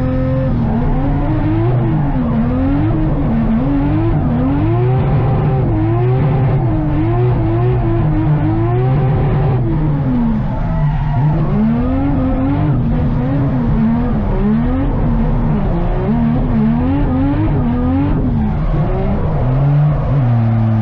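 Drift car engine revving hard, its pitch climbing and dropping about once a second under throttle, with the tyres skidding. The revving pauses briefly about ten seconds in, then picks up again.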